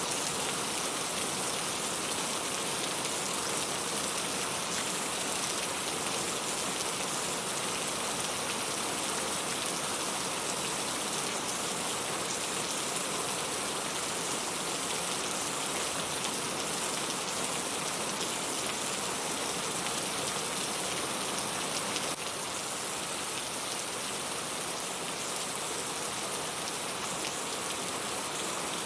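Steady rain falling: an even, unbroken hiss of drops, getting a little quieter about two-thirds of the way through.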